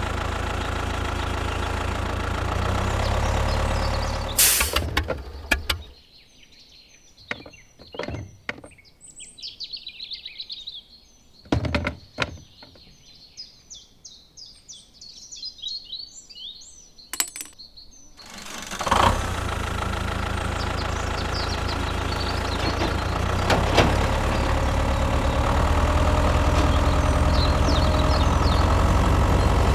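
A machine's motor runs with a steady low hum, then stops. For a quieter stretch of about twelve seconds, birds chirp, broken by a few sharp clicks and knocks. The motor hum starts again a little past the middle and runs on steadily.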